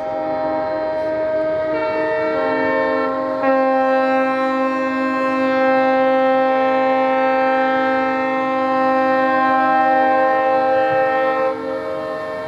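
Several ships' horns sounding together in long, overlapping blasts of different pitches, some blasts starting and stopping while others hold.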